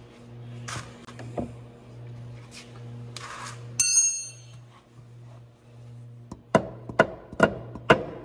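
Dead blow hammer knocking a part into place, a regular run of blows about two a second starting about six and a half seconds in. Before that, a steady low hum with a few light knocks and a brief metallic clink about four seconds in.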